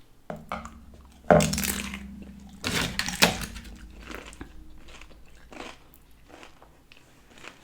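Crunchy bites into a crisp fried tortilla topped with aguachile, loudest about a second in and again around three seconds, then quieter chewing crunches.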